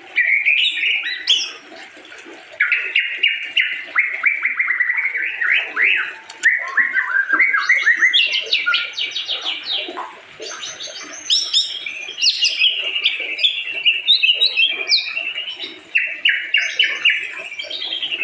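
White-rumped shama (murai batu) singing: phrases of fast, repeated chirping notes with brief pauses between them.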